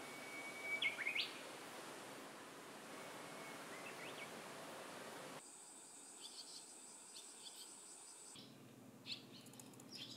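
Faint birdsong over a soft, steady outdoor hiss. Twice in the first half a bird gives a long held whistle that ends in a quick flourish of higher notes. About halfway through, the background changes to a quieter bed with a steady high whine and scattered short chirps.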